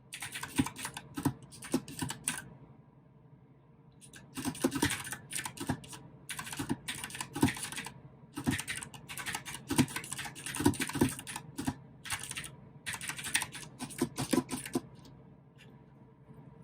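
Typing on a mechanical keyboard with clicky blue switches, in quick bursts of keystrokes. There is a short pause about two seconds in, and the typing stops shortly before the end.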